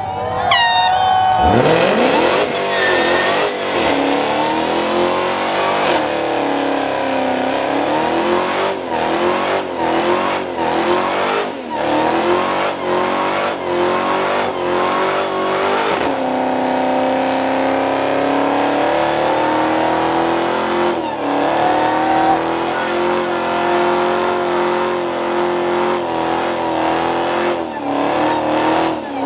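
Mopar muscle car doing a burnout: the engine revs sharply about a second in and is held at high, wavering revs, with the rear tyres spinning and squealing. The revs sag briefly twice along the way.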